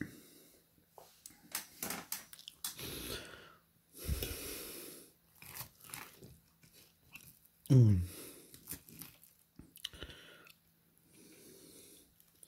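Close-up chewing and mouth sounds of a person eating, with breaths, small clicks of a fork on a plate, and a short low hum that falls in pitch about eight seconds in.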